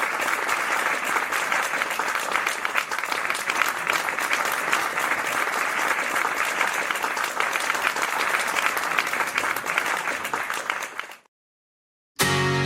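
Audience applauding, a dense patter of clapping that fades out about eleven seconds in. After a second of silence, a guitar starts playing right at the end.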